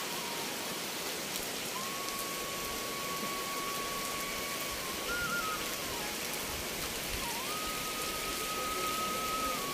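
Heavy rain falling steadily, an even hiss of rain on the ground, roofs and foliage. A thin tone runs over it, held for a few seconds at a time and stepping up and down in pitch.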